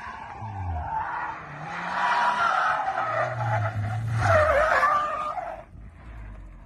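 Car tyres squealing in a long skid while the engine revs up and down. The squeal fades out about five and a half seconds in.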